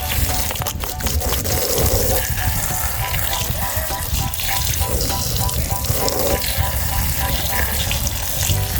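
Water running and splashing steadily as muddy toy vehicles are rinsed clean.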